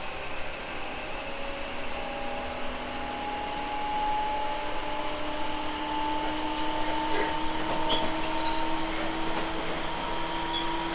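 Tobu 10000 series electric train heard from inside a motor car while running: the traction motor and gear whine rises slowly in pitch as the train gathers speed, over a steady rumble of wheels on rail.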